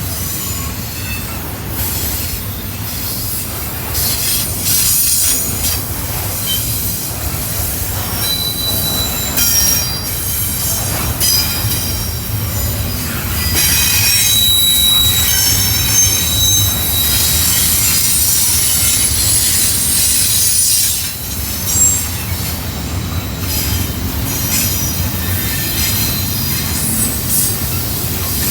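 Intermodal freight cars rolling past with a steady low rumble, with high-pitched wheel squeal coming and going.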